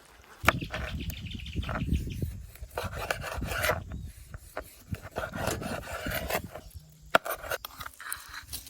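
Irregular rustling and scraping with scattered sharp clicks, starting about half a second in.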